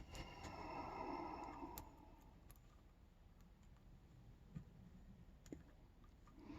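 Faint handling noise, then a few scattered faint clicks: small metal lock parts and tools being handled during a padlock disassembly.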